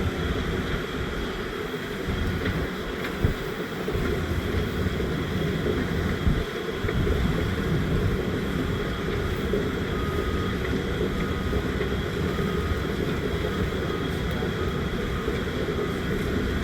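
Wind buffeting the microphone: a steady low rumble, with two brief knocks about three and six seconds in.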